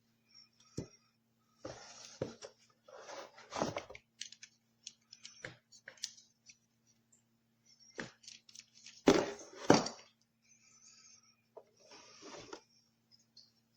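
Handling noises: scattered clicks, knocks and short rustles, with two louder knocks about nine and ten seconds in, over a faint steady hum.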